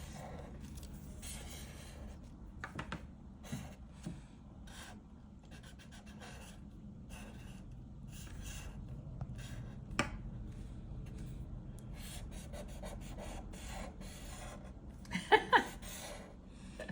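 Pen strokes drawing on paper: a run of short scratchy rubs one after another, some quick and close together. About fifteen seconds in, a few short, loud vocal sounds from a person.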